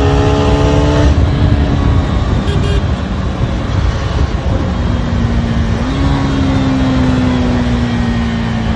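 KTM Duke 250's single-cylinder engine through its stock exhaust, revs climbing under throttle, then the throttle closes about a second in. Mostly wind and road rush follows. A steady, low engine note returns near the end and slowly drops in pitch as the bike rolls off.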